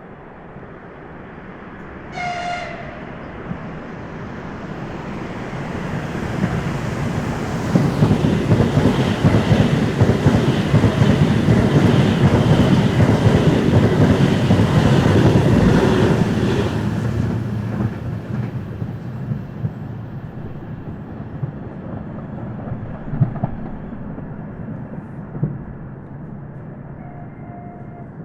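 Russian electric multiple-unit commuter train passing at speed: a short horn toot about two seconds in, then the train's noise swells, stays loud with wheel and rail rumble for about ten seconds, and fades away.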